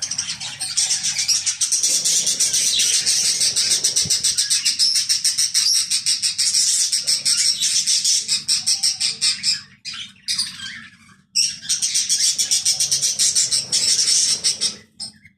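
Small birds chirping in a rapid, continuous high-pitched chatter, breaking off briefly about ten seconds in before starting again.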